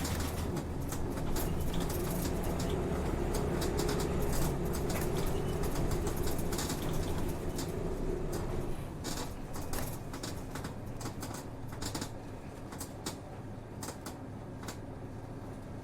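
Inside a city route bus while it is moving: the diesel engine drones low and steady, and the cabin rattles and clicks. A humming tone stops about nine seconds in and the sound gets somewhat quieter.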